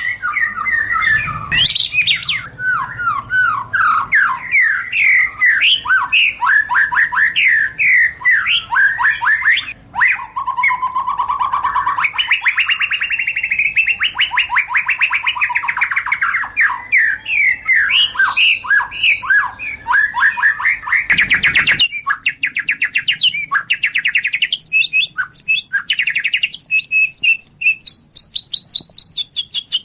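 White-rumped shama singing a long, varied song of rapid whistles, trills and chattering phrases, with a brief burst of noise a little after two-thirds of the way through.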